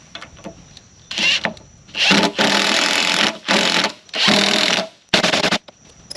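Impact driver driving 5-inch lag bolts into timber, hammering in five bursts of a second or so, the longest in the middle.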